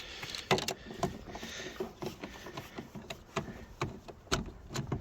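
Irregular clicks and knocks of plastic and metal trim parts being worked loose from a minivan door by hand and tool.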